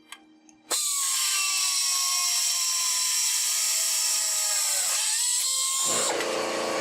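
Rockwell 2800 RPM pneumatic 90° angle drill starting up under a second in and running with a high-pitched whine and air hiss. Its pitch sags slightly over a few seconds and the sound turns harsher near the end as it drills holes.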